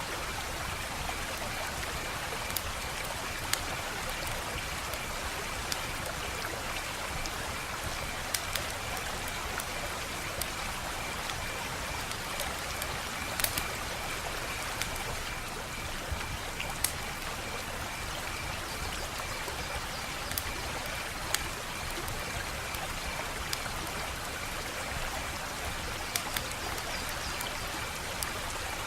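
Wood fire burning with a steady hiss and sharp, irregular crackles and pops, about a dozen of them.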